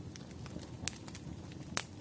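Wood fire crackling: a steady low rumble of burning logs with scattered small ticks and two sharp pops, about a second in and near the end.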